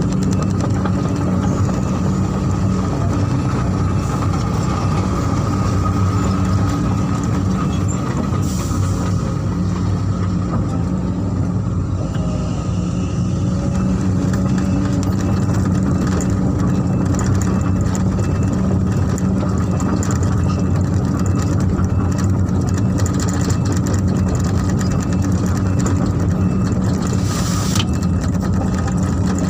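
Heavy diesel engine of working machinery running at a steady speed, an even drone that holds throughout.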